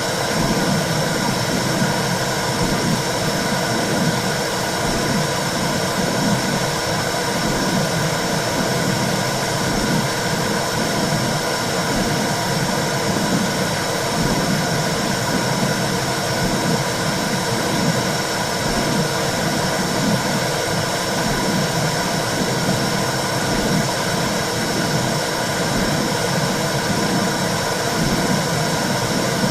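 Womb sound for soothing a baby: a steady rushing noise with a low whooshing pulse repeating about once a second, like a heartbeat heard through the womb.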